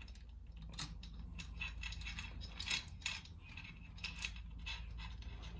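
Light, scattered metal clicks and clinks of a cam chain and engine parts being handled and fitted, over a steady low hum.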